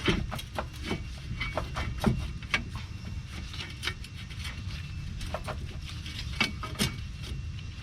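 Irregular clicks and knocks of metal parts as a front wheel hub assembly is shifted against the steering knuckle to line up its bolt holes, with a few louder knocks, over a steady low hum.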